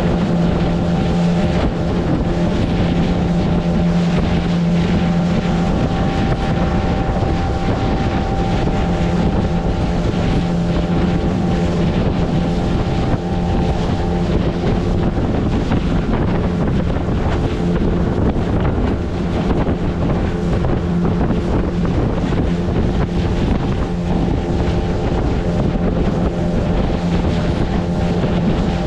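Motorboat engine running steadily at cruising speed, a constant low hum, with wind buffeting the microphone and water rushing past the hull.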